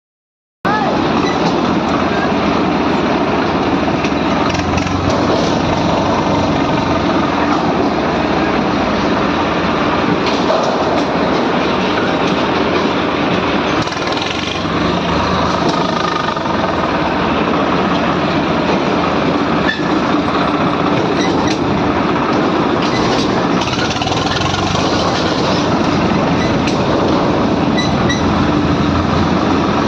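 Tractor engine running steadily and loudly, with a heavy mechanical clatter.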